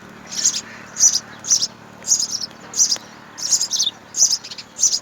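House sparrow chirping, a run of short, high chirps repeated about twice a second.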